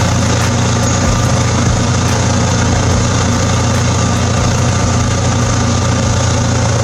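Heavy forestry machine's engine running steadily: a constant low drone with a broad rushing noise over it.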